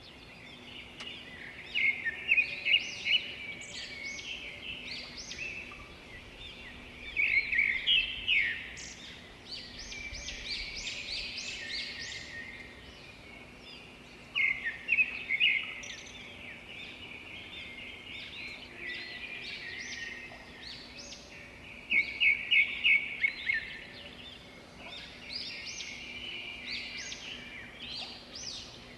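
Several birds chirping and calling, with louder bursts of rapid chirps about 2, 8, 15 and 22 seconds in.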